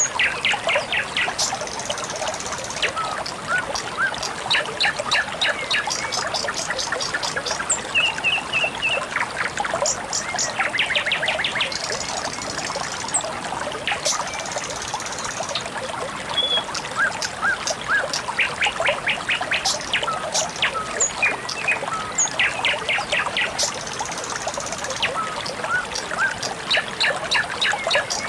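Water trickling steadily, with birds chirping over it throughout: quick trills of rapidly repeated notes, short single chirps and brief high twitters.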